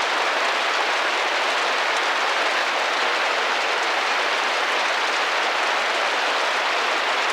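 Steady rain tapping against a window pane: an even hiss with no let-up.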